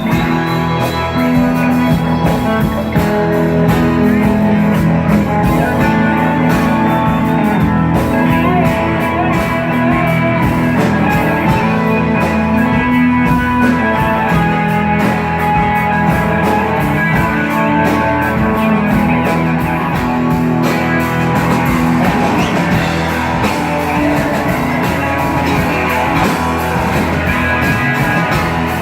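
Live rock band playing an instrumental passage, led by guitars over bass and drums.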